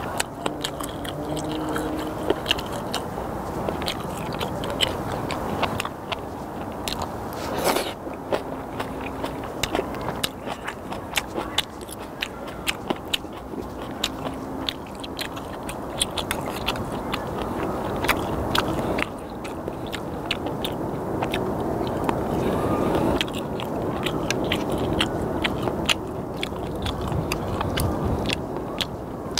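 Close-miked chewing of sliced raw skate, with many short, irregular crunching clicks as the skate's cartilage is bitten through.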